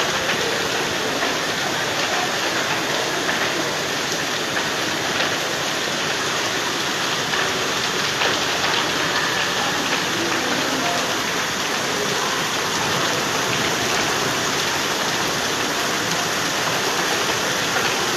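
Heavy rain falling, a dense steady hiss with many fine ticks of drops striking.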